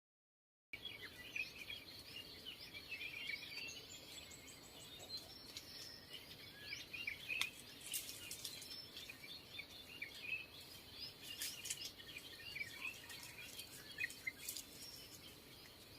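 Many small birds chirping in a dense, overlapping chorus of short high calls, with a few faint clicks. It starts abruptly about a second in, after silence.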